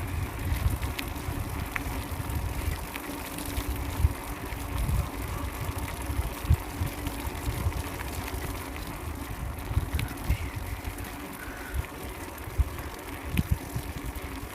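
Wind buffeting a handheld camera's microphone while riding a bicycle downhill, over the hiss of tyres rolling on the road, with a few scattered light clicks.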